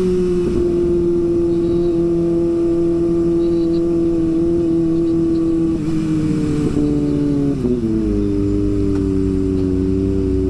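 Kawasaki ZX25R's 250 cc inline-four engine running at high revs while riding, loud and steady, its pitch easing slowly lower. About seven seconds in it wavers and then drops a step, as on a throttle change or gear change.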